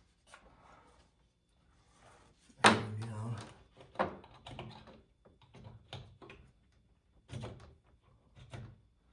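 Handling knocks and clicks of a plastic Ring indoor camera, its mount and power cord being fitted together. One loud knock comes about two and a half seconds in, followed by several lighter knocks spaced a second or so apart.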